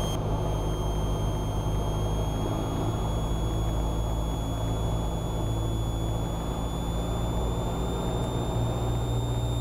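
Cessna 172R's four-cylinder Lycoming piston engine and propeller droning steadily in flight, with a thin high whine held above it that creeps slightly up in pitch.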